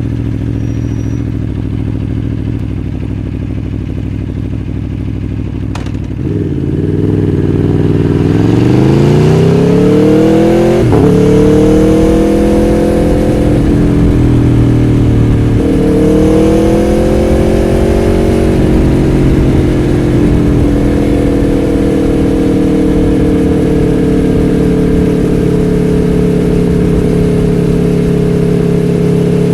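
Aprilia Tuono V4 1100 Factory's V4 engine idling, then pulling away, rising in pitch through two gears with a gear change between, and settling to a steady cruise.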